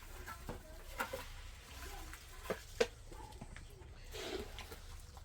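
Scattered sharp taps and knocks, like hard objects struck or set down, the two loudest about a third of a second apart a little past halfway.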